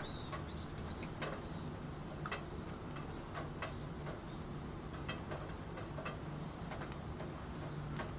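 Computer keyboard typing: irregular key clicks, some louder than others, over the steady hiss of falling rain.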